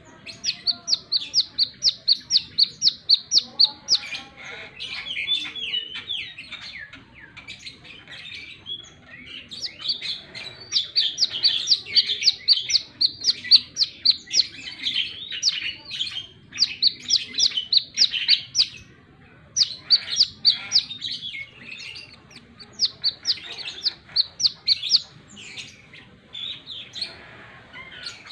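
Brown-throated sunbird (kolibri kelapa) singing. It gives bouts of fast, sharp, high notes at about five a second, and softer, lower twittering runs between the bouts.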